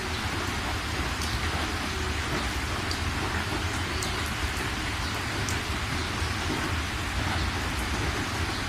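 Steady heavy rain falling, with scattered drop ticks and a constant low rumble underneath.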